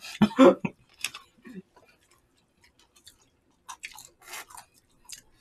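People eating close to the microphone: chewing, with small wet smacks and clicks coming in two clusters, about a second in and again near four seconds. A brief bit of voice sounds at the very start.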